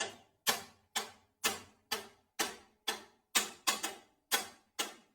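Evenly spaced sharp ticks, about two a second, each fading away quickly, with one quick double tick a little past halfway.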